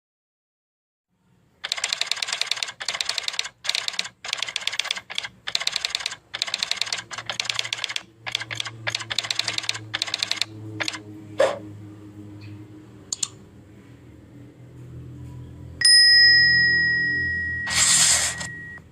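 Prenjak (small prinia-type songbird) chattering calls: about a dozen rapid, clicking trill bursts in quick succession, each under a second long, then a few single chips. Near the end a steady high whistle-like tone holds for about three seconds.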